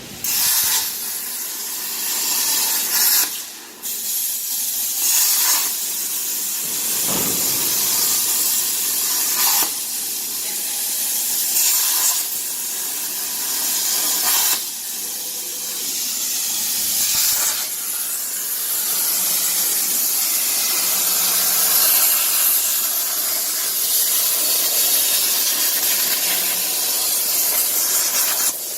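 Plasma cutter cutting carbon steel: a loud steady hiss of the plasma arc and its gas jet, starting suddenly at the outset, with a brief dip in level about four seconds in.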